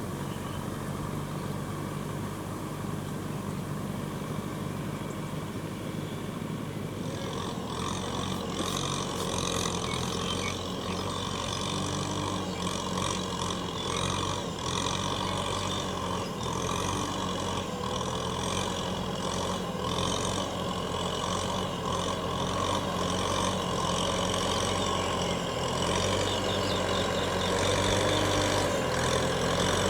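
Kubota M6040SU tractor's diesel engine running steadily under working load. About seven seconds in, a busier, higher-pitched clatter joins the engine note, and the sound grows slowly louder toward the end.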